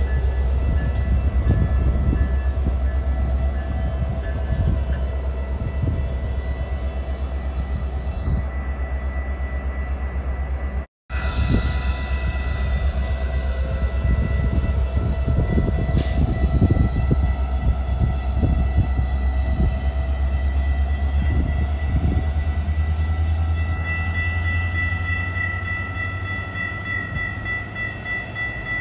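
Metra bilevel commuter train rolling past on the near track: a steady low rumble with repeated wheel knocks and steady high ringing tones. The sound cuts out for a moment about a third of the way through. It fades near the end as the rear cab car moves away.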